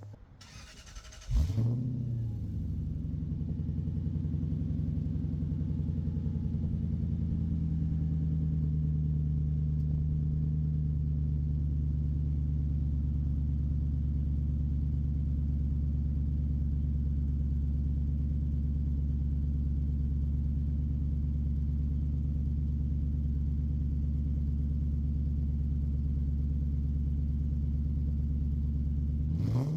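Lexus GS 400's V8 starting through its newly fitted exhaust, catching with a loud burst about a second in. It settles from a slightly higher fast idle into a steady, deep idle, and a rev begins right at the end.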